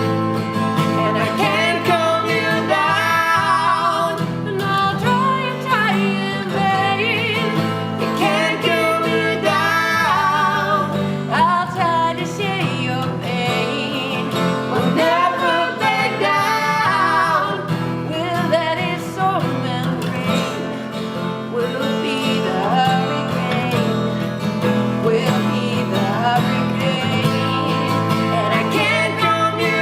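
Acoustic guitar playing chords while a woman sings long, wavering notes with vibrato over it.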